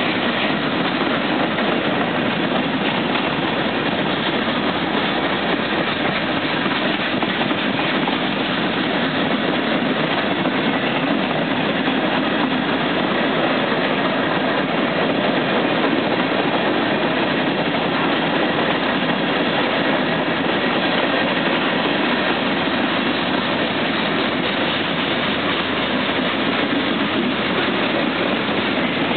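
Freight train rolling past on the rails: a steady, loud rumble of wheels on track.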